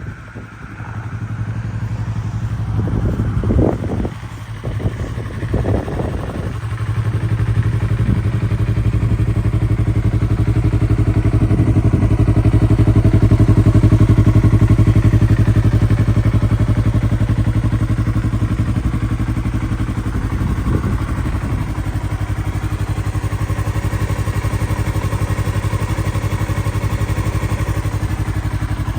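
2015 Yamaha R3's parallel-twin engine idling steadily, with a few clattering knocks about three to six seconds in.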